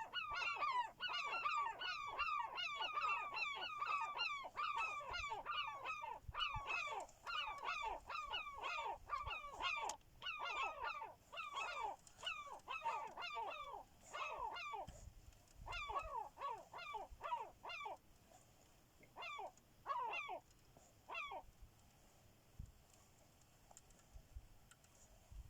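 Gulls calling in a rapid series of short, harsh calls, several a second. The calls thin out and stop about twenty seconds in.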